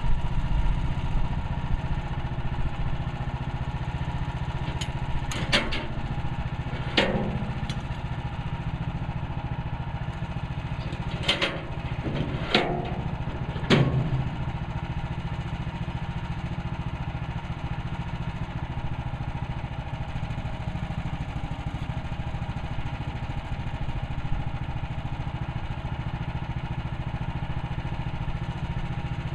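Gas engine of a Woodland Mills HM130 Max band sawmill running steadily, with several short sharp knocks about a third of the way in and again near the middle.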